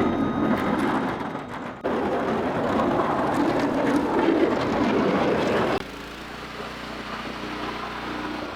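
Snow-plowing vehicles' engines running under heavy load, in three abruptly cut segments. Two loud, noisy stretches are followed, about six seconds in, by a quieter steady engine hum.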